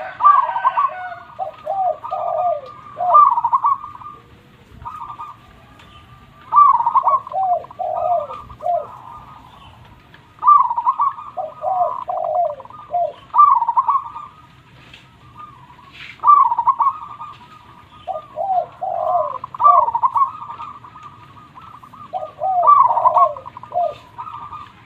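A zebra dove (perkutut) singing its rolling cooing phrase over and over, a new phrase about every three to four seconds.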